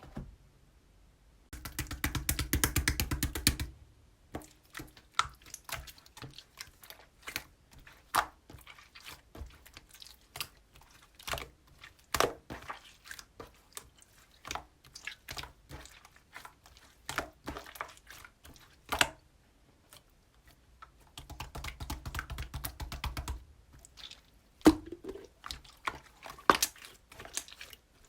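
Slime being pressed and squeezed by hand, making irregular sharp clicks, pops and crunchy crackles. There are two denser stretches of crackling, about two seconds in and again about twenty-one seconds in.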